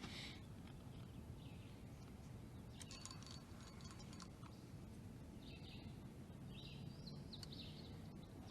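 Faint bird calls, a few short chirps, over a low steady background noise outdoors on the water.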